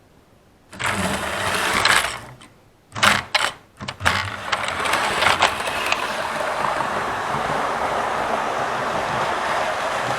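OO gauge model locomotive's electric motor whirring as the train runs along the track. It starts about a second in, cuts out and stutters in short bursts, then runs steadily.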